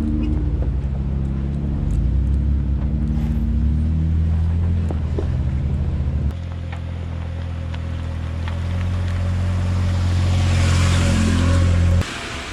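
Jeep engine running at a low, steady pace while crawling a trail. The sound shifts abruptly about six seconds in. A hiss builds over the last few seconds and cuts off sharply near the end.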